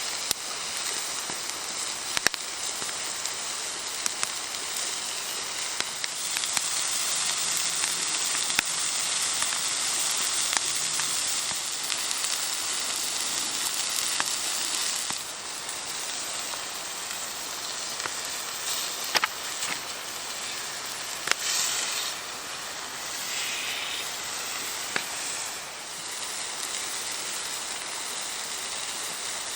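Campfire crackling, with sharp pops now and then over a steady hiss.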